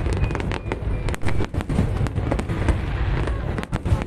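Aerial fireworks going off in quick succession: many sharp bangs and crackles over a continuous low rumble.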